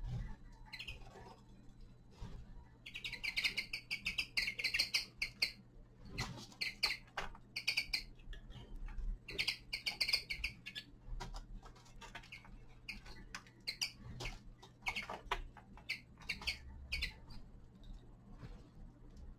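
Small finches chirping and twittering in short bursts of rapid high notes, several times a few seconds apart, over scattered sharp clicks.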